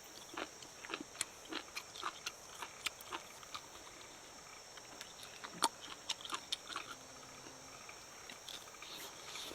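A person chewing and biting into charcoal-roasted snake meat with the skin still on, which is very chewy: irregular close clicks and crunches of mouth sounds, several a second.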